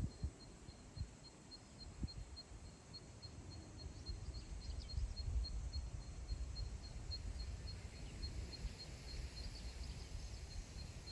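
Wind blowing across open grassland, a low gusting rumble on the microphone that grows stronger partway through. Over it, a faint high call ticks evenly about three times a second, with a few brief bird chirps.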